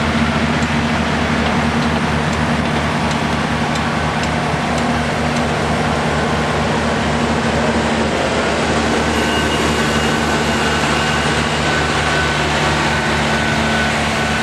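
Tractor engine running steadily at an even speed, without revving up. A faint steady whine joins in about nine seconds in.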